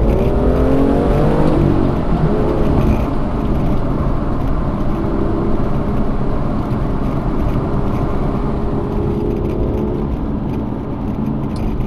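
BMW M2's N55 turbocharged straight-six accelerating, rising in pitch over the first couple of seconds, then pulling more steadily, in Sport Plus mode. Heard from inside the cabin with wind and road noise through an open window.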